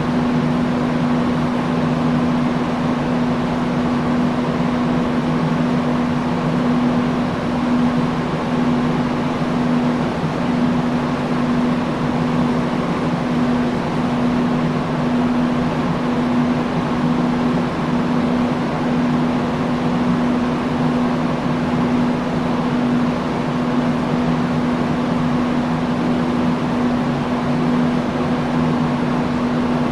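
Industrial fan running steadily: an even rush of moving air with a constant low hum from its motor and blades.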